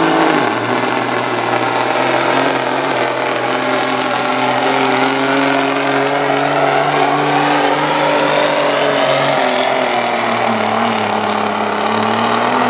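Kenworth W900A semi's big Cummins KTA diesel engine running hard under load during a truck pull, with a high steady whistle above it. The engine's pitch dips about half a second in and again about nine and a half seconds in.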